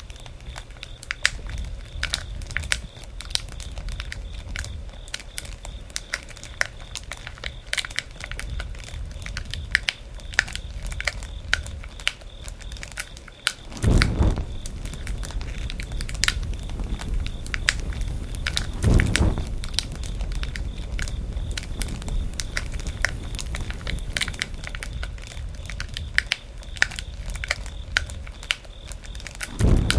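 Wood campfire crackling: many sharp irregular pops and snaps over a low rumble of the flames, with two louder, longer bursts in the middle.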